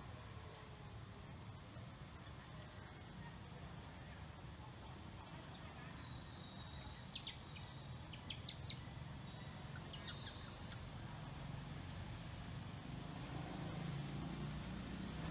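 Insects trilling steadily at two high pitches, over a faint low rumble. A handful of sharp clicks come about halfway through.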